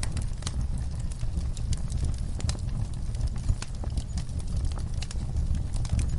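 Wood fire burning in a fireplace: a low steady rumble with frequent, irregular sharp crackles and pops.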